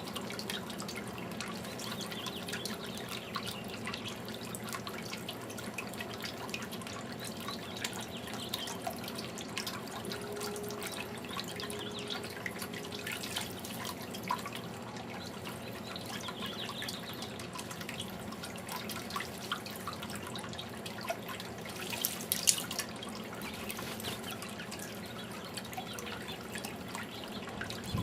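Garden fountain water trickling and dripping steadily, with a brief louder splash about twenty-two seconds in.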